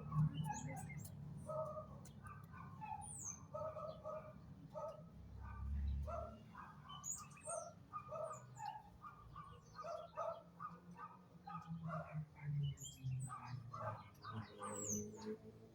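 Several birds chirping: a run of short calls throughout, mixed with a few thin, high, falling whistles, over a low background rumble.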